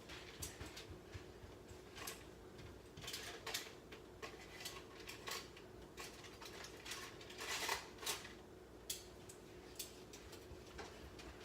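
Chicken wings being flipped on a foil-lined air fryer oven pan: irregular light clinks and clatters of a utensil against the pan and foil, over a faint steady hum.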